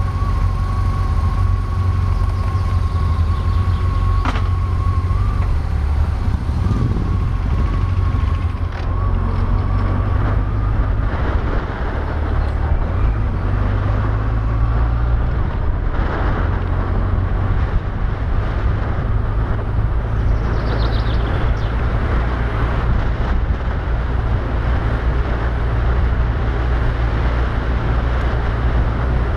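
A moving vehicle's steady low engine and road rumble, with a noisy rush over it.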